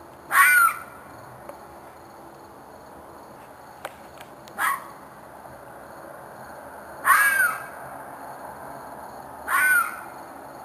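An animal screaming four times, harsh calls about half a second each with a rising-then-falling pitch, two to three seconds apart; the recorder takes it for a fox, or possibly a coyote, in distress.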